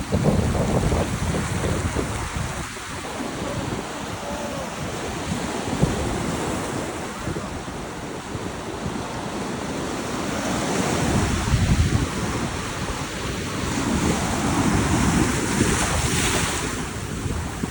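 Ocean surf breaking and washing up the shore, with wind buffeting the microphone. The surf swells several times, loudest near the start and again about two-thirds of the way through, with a hissing wash near the end.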